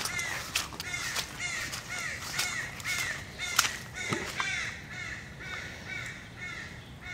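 A bird calling over and over, a short call repeated steadily about twice a second.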